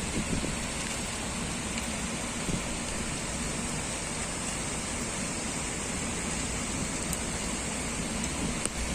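Heavy typhoon rain falling steadily, a continuous hiss of rain on surfaces.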